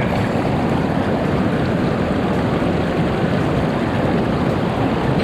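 A mountain stream running high after rain, its water rushing steadily.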